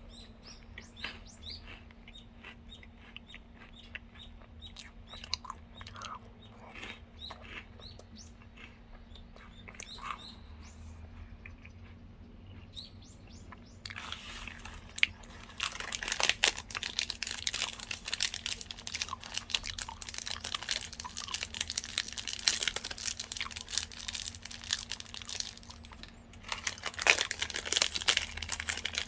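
Chewing a crisped-rice chocolate bar, with soft crunches and small wet mouth clicks. About halfway through, loud crinkling of a plastic candy-bar wrapper being handled and torn takes over, pausing briefly near the end.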